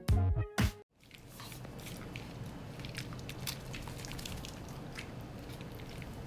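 Upbeat background music stops abruptly just under a second in. After that comes a dog chewing: scattered small clicks and crunches over a steady low hum.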